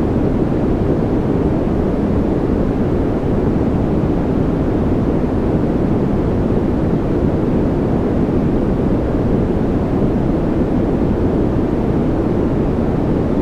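Steady, unchanging sleep noise: a deep rushing hiss weighted toward the low end, with little high hiss on top.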